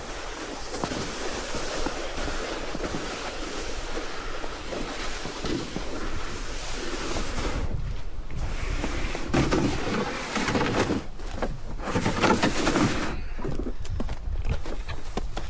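Wind buffeting the microphone as a steady rushing noise, turning choppier in the second half with scattered knocks and rustling.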